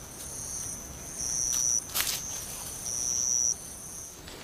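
Chorus of night insects trilling steadily at a high pitch, with louder trilled phrases every second and a half or so. A single sharp click comes about two seconds in.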